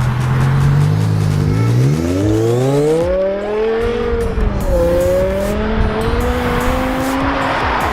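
BMW M5's V10 engine through a modified exhaust, idling low, then revved up about two seconds in, dipping briefly and climbing again before the revs drop near the end.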